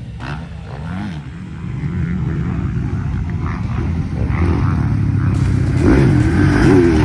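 Motocross dirt bike engines revving on the track, their pitch rising and falling as the throttle opens and closes, growing louder toward the end.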